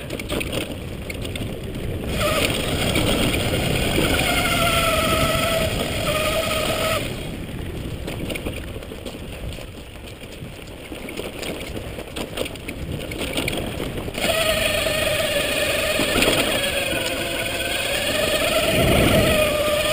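Electric mountain bike's motor whining under load on an uphill climb, its pitch wavering slightly with speed. The whine comes on about two seconds in, drops out for several seconds midway, then returns.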